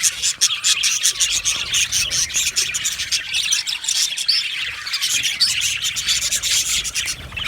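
A flock of budgerigars chirping and chattering together: many quick, high, overlapping calls with no break.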